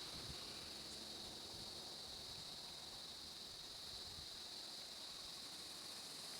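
Faint steady hiss with a continuous high-pitched band running through it and no distinct events.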